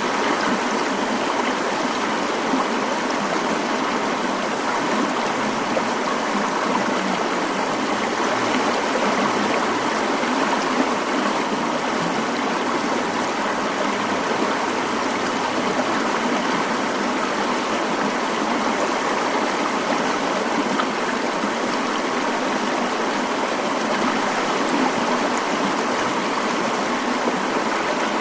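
Mountain stream running steadily, an even rushing of water with no change in level.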